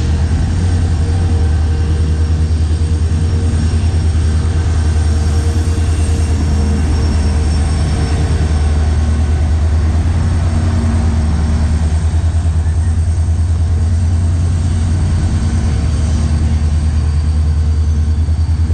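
EMD WDP4 diesel locomotive's two-stroke 16-cylinder engine running steadily at close range, a loud low drone with a fast, even pulse and a few steady higher tones over it.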